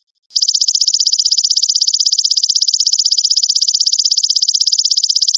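Belalang emas (golden grasshopper) call: a loud, rapid, evenly pulsing high-pitched trill that starts abruptly about a third of a second in and holds steady, played as a tutor song for training caged songbirds.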